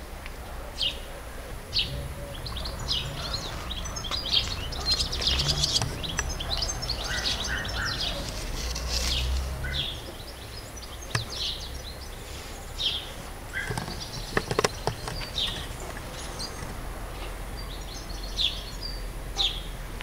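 Songbirds chirping and singing, many short high notes one after another, over a steady low rumble. A few brief clicks come about fourteen seconds in.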